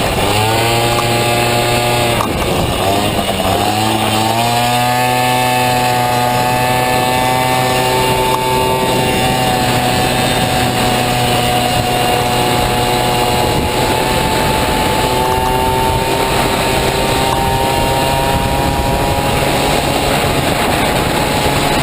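Honda Motocompo scooter with a Honda Dio two-stroke engine running hard at high revs. The revs drop and climb back twice in the first few seconds, then hold high and fairly steady, rising and falling slightly.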